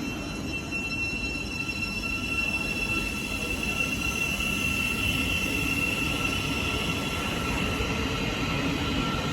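A train running past, with a low rumble and a steady high-pitched squeal that is loudest midway.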